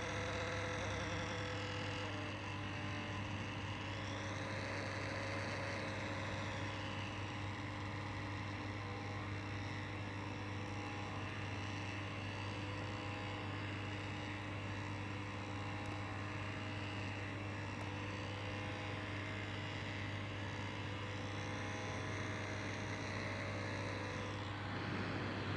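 MSI PS42 8RA laptop's CPU cooling fan spinning with a steady whirring hum and a high whine that rises and falls a couple of times. The noise is the sign of a faulty fan, which the owner cured by replacing it.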